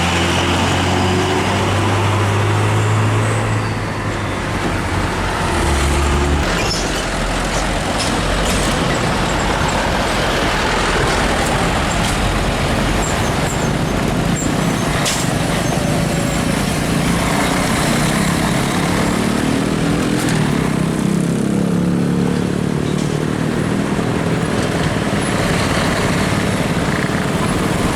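Heavy diesel trucks passing on a busy road: engine drone over tyre and traffic noise, with a second truck's engine growing louder in the latter half.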